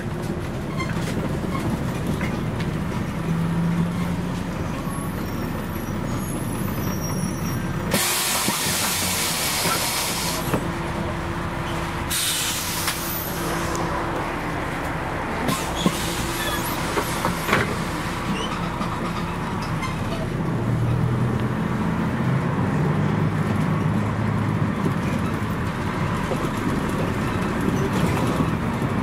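Scania CN113CLL city bus heard from on board, its Scania DSC11 diesel running, with two loud bursts of compressed-air hiss about eight and twelve seconds in, typical of the air brakes and doors at a stop. A few sharp clicks follow, and the engine grows louder again about twenty seconds in.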